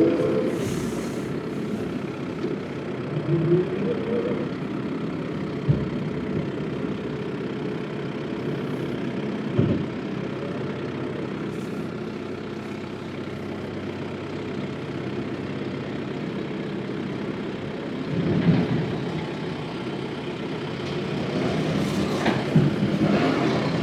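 A loader's engine running steadily while it works, with a few sharp knocks.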